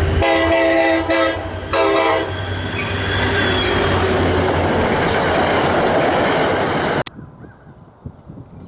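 Multi-tone train horn sounding two blasts, followed by the loud steady rush of a passing train on the Northeast Corridor line. The sound cuts off abruptly about seven seconds in, leaving faint high chirping.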